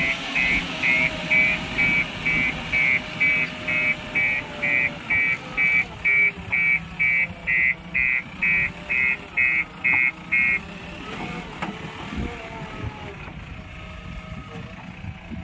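JCB 3DX Plus backhoe loader's reversing alarm beeping about twice a second over its diesel engine running, the machine backing up. The beeping stops about two-thirds of the way in and the engine runs on.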